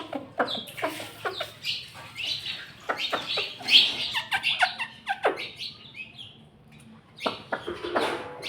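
Indian ringneck parakeet chattering in a string of short chirps, clicks and squeaky sweeping notes, going briefly quiet about six seconds in before calling again.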